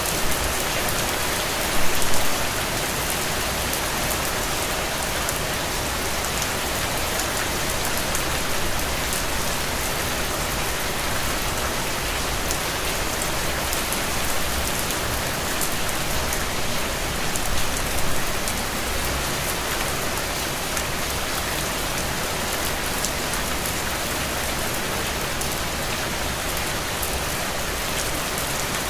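Steady rain falling on a window, an even hiss of drops with brief louder patters about two seconds in and again around eighteen seconds.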